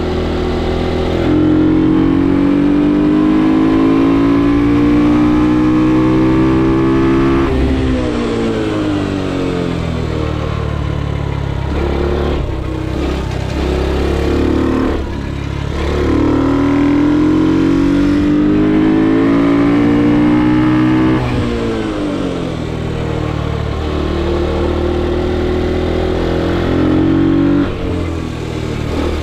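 Ohvale GP2 110 mini racing motorcycle's single-cylinder four-stroke engine at full throttle along a kart track, its pitch climbing for several seconds and then dropping sharply as the throttle is shut for the corners, about four times.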